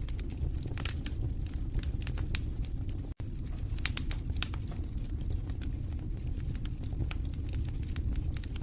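Fireplace fire burning, with irregular sharp crackles and pops over a steady low rumble of flame. The sound drops out for a split second about three seconds in.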